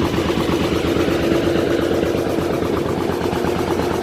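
A tour boat's engine running at a steady pace, a dense, even engine sound with a constant hum.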